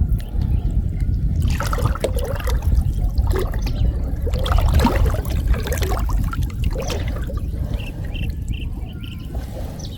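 Water splashing and trickling as a gill net is hauled in from flooded field water, busiest in the first half and dying down after about seven seconds, over a steady low rumble.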